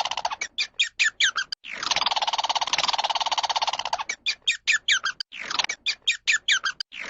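Small animal calling in a repeating pattern: a rapid buzzy trill lasting a couple of seconds, then a run of short, quick chirps, with the pattern coming round twice.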